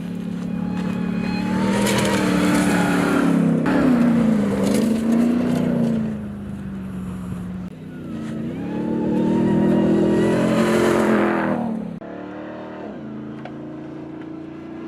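Ram 1500 TRX's supercharged 6.2-litre Hellcat V8 revved up twice, the pitch rising and wavering each time, then settling back to a steady lower run near the end.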